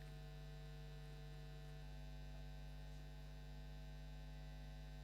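Steady electrical mains hum with a faint hiss underneath, with no other sound standing out.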